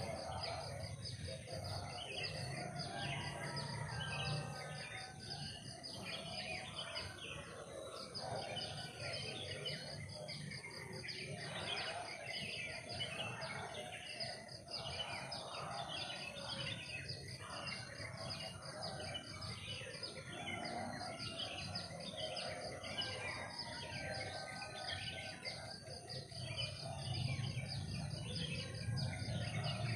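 Forest ambience: many birds chirping and calling over a steady high-pitched insect drone, with a low hum underneath.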